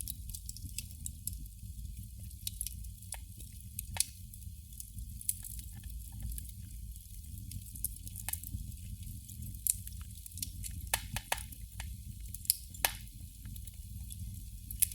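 Candle flame crackling: irregular sharp pops and ticks, a few louder than the rest, over a steady low rumble.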